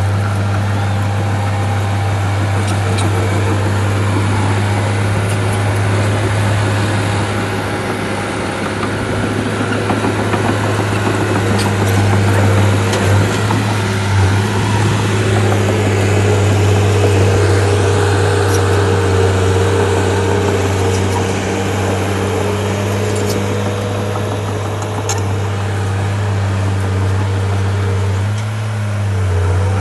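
Bulldozer's diesel engine running steadily at an even speed, a constant low hum with a few faint clicks over it.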